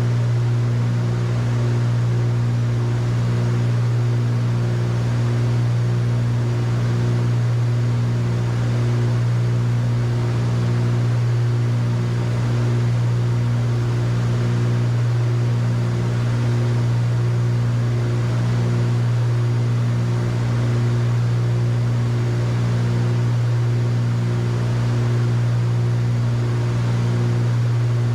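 Cockpit drone of a Cessna 310Q's twin piston engines and propellers in steady cruise flight: a loud, even low hum with a slow, regular throb about once every second and a bit, the beat of the two engines running at slightly different speeds.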